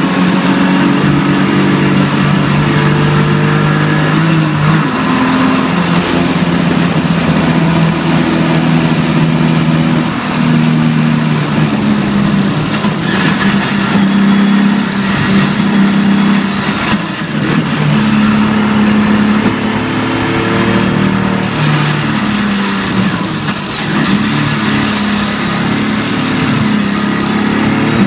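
BMW E46 325ti Compact's 2.5-litre straight-six heard from inside the cabin at speed, its note stepping up and down in pitch several times with gear changes, over a steady hiss of tyre and road noise.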